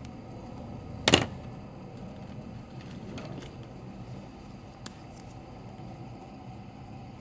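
A single sharp knock about a second in and a faint click a few seconds later, over a steady low hum.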